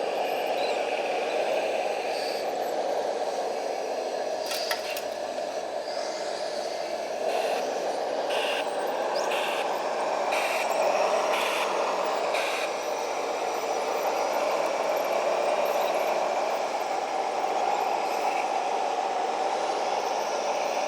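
Radio-controlled model construction machines running: a steady whir of small motors and gearing, with scattered clicks and rattles.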